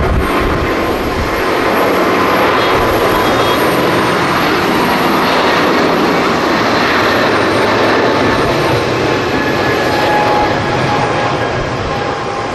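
Jet airliner engines, a loud, steady rushing noise with faint whining tones through it, easing off slightly near the end.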